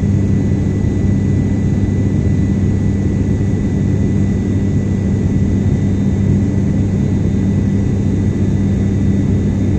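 Steady in-flight cabin noise of an airliner: engine drone with a constant low hum and a faint, even high whine.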